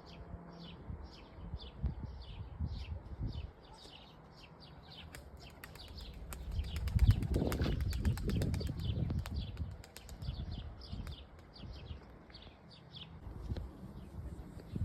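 Pigeons flapping their wings, loudest in a stretch of flapping about halfway through, over a steady run of short high chirps, about three a second.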